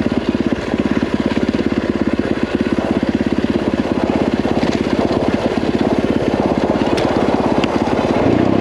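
Yamaha WR450F's single-cylinder four-stroke engine running at low revs with an even thumping beat, the note changing near the end.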